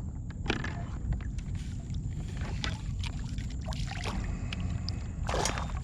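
Handling noises aboard a fishing kayak as a redfish goes onto a stringer: scattered small clicks and knocks over a low steady rumble, with a short noisy rush near the end.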